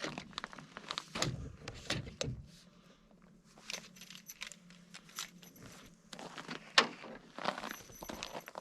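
Irregular clinking and rattling clicks, with a few dull knocks about a second in.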